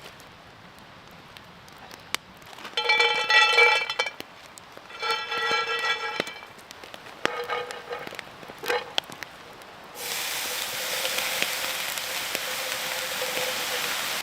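Food sizzling over hot campfire coals: a loud, steady sizzle that starts suddenly about ten seconds in. Before it come scattered crackles and clicks, and two short whistling tones about a second long each.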